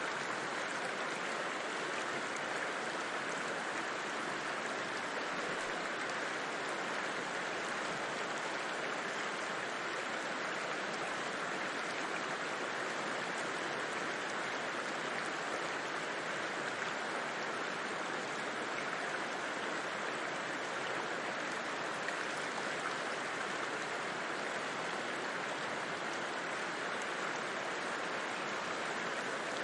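A river flowing over stones: a steady, even rushing of water.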